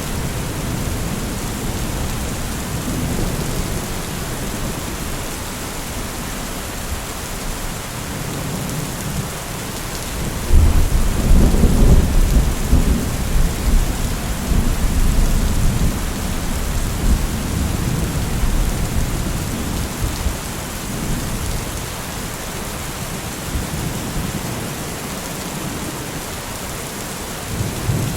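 Steady heavy rain with rolling thunder. Ten seconds in, a loud, deep thunderclap breaks suddenly and rumbles away over several seconds.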